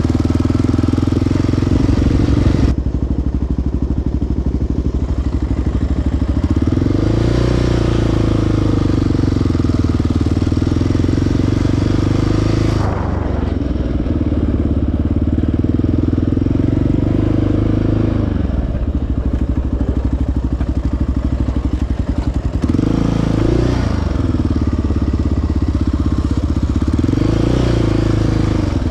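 Sport ATV's single-cylinder four-stroke engine running under way on a trail, its pitch rising and falling several times as the throttle is opened and closed.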